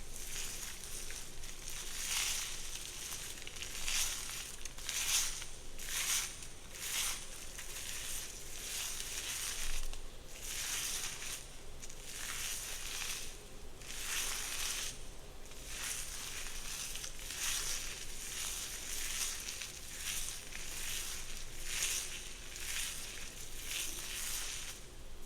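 Hair being worked in a run of hissing strokes, about one a second, unevenly spaced.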